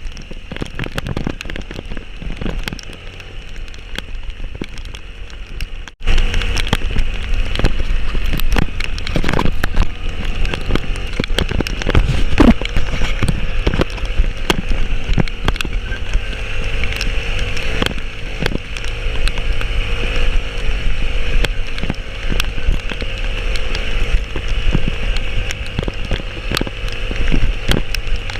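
Heavy rain with a vehicle driving through it: a steady rush of rain and wind, with many scattered drops striking. About six seconds in, the sound jumps suddenly to a much louder, deep rumble of wind and road noise.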